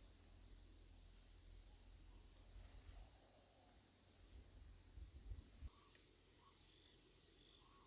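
Faint, steady high-pitched chirring of crickets, with a few soft low thumps about five seconds in.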